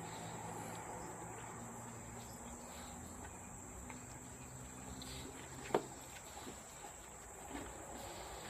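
Faint steady background with a continuous high-pitched whine and a low hum, broken by one sharp click a little past halfway.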